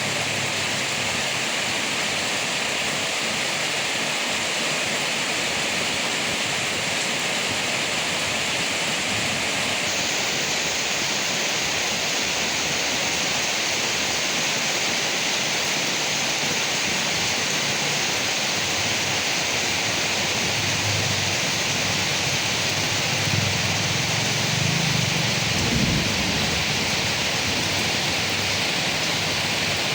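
Steady heavy rain falling on leaves, an even hiss. About two-thirds of the way through a low rumble swells up for a few seconds and dies away.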